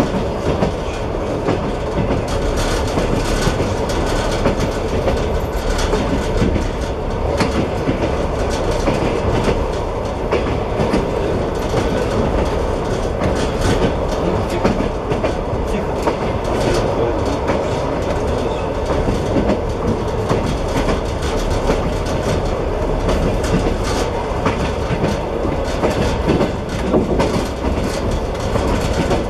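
Passenger train running steadily, heard from inside the carriage: a continuous rumble of wheels on rails with frequent sharp clicks from the rail joints.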